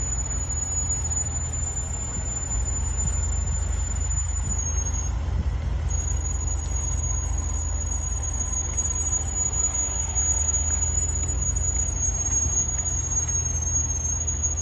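Range Rover Sport SVR brakes squealing: one thin, steady, high-pitched tone that drops out briefly about five seconds in, over the low rumble of the moving car. It is a persistent brake squeal that has come back after chamfered and lubricated pads, new pads and discs, and new calipers.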